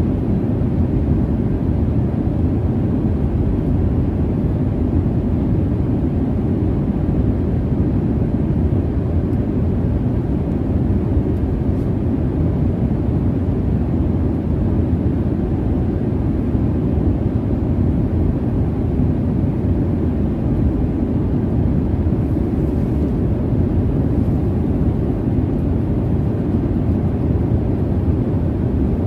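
Airliner cabin noise in cruise: a steady, deep rush of engine and airflow noise with no changes.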